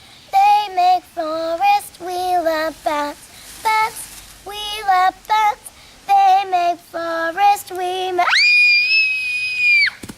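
A child singing a short tune in quick syllables, then letting out a long, shrill, high cry held for about a second and a half near the end.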